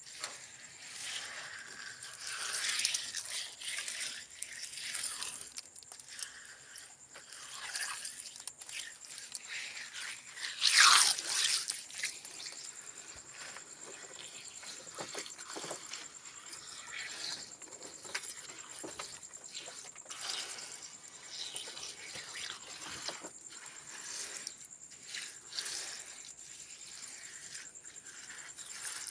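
Irregular scraping, rubbing and rustling from hands-on work with materials, with one louder scrape about eleven seconds in.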